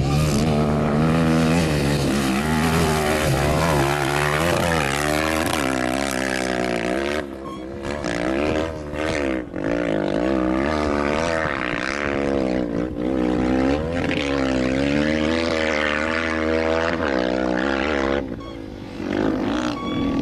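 Off-road rally engine revving up and down over and over, its pitch rising and falling about once a second, easing off briefly a few times.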